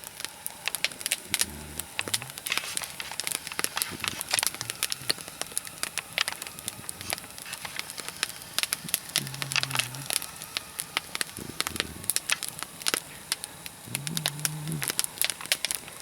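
Nodya log fire of spruce, fir and larch trunks crackling, with many sharp pops throughout; the pops are resin pockets in the wood bursting in the heat.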